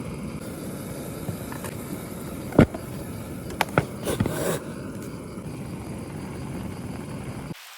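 Camp cooking on a portable gas burner: a steady low rushing noise with a few sharp clinks and knocks of cookware between about two and a half and four and a half seconds in. The rushing starts and cuts off abruptly.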